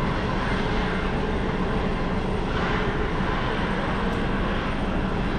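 Airliner's engines running: a steady, dense noise with a low hum underneath.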